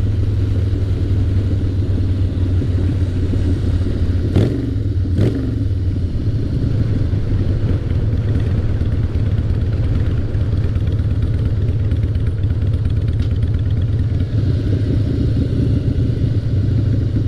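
Harley-Davidson 88 Twin Cam V-twin running steadily under way through straight Paughco slash-cut drag pipes. Two brief knocks come about four and five seconds in.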